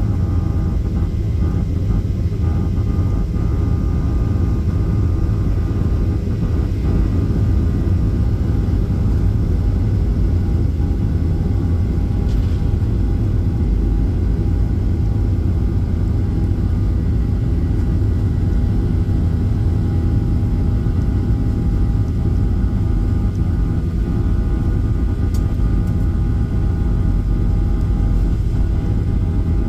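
Cabin noise inside a Boeing 737-800 airliner: a steady low rumble from the engines and airflow, with a few faint steady hums above it.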